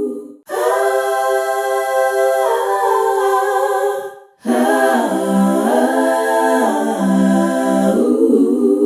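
Vocal music: a cappella voices singing long held notes that glide from one pitch to the next, with two short breaks, about half a second in and about four seconds in.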